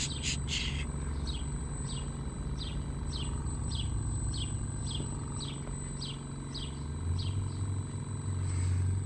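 Refrigerant recovery machine running with a steady low hum as it pulls the last vapor out of the system; the hum steps up and steadies about seven seconds in. Over it, a bird repeats a short descending chirp about twice a second.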